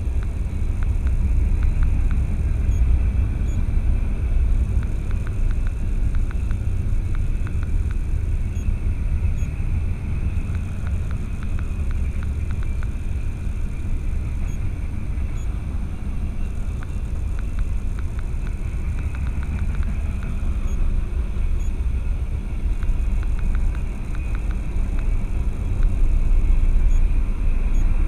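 Steady low rumble of a vehicle on the move, recorded by a dashcam, with faint scattered clicks.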